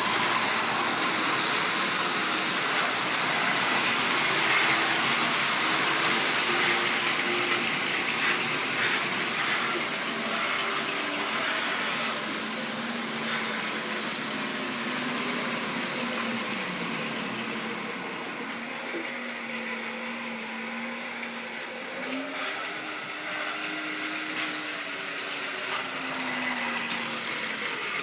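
Model railway train running along the track: a steady rushing rumble of wheels on rails with a faint motor whine that wavers slowly in pitch, gradually getting quieter.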